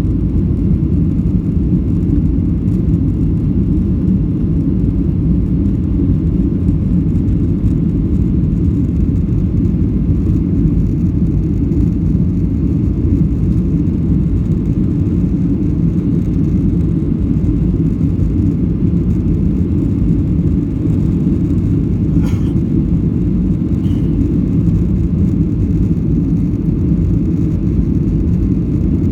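Flydubai jet airliner's engines during takeoff and climb: a steady low rumble that holds an even level throughout.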